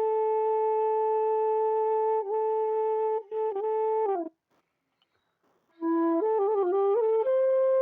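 Background flute music: long held notes with small ornamental turns, a pause of about a second and a half midway, then a short stepping phrase that settles on a long held higher note.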